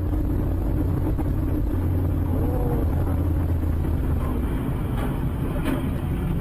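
Steady low rumble of a car driving, engine and road noise, with a couple of faint clicks about five seconds in.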